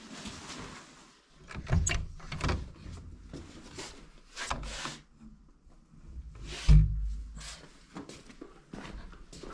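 Irregular knocks, rubs and scrapes of things being handled, with one loud thump about seven seconds in.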